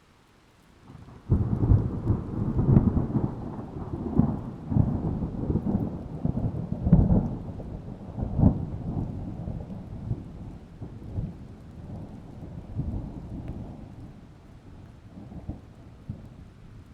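A thunderclap breaks about a second in and rolls on as a deep rumble with repeated cracks, slowly dying away, over steady rain.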